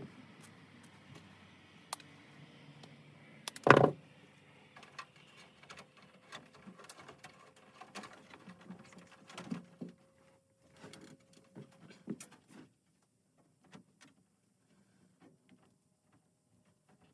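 Scattered clicks and taps, with one loud knock about four seconds in; the last few seconds are nearly silent.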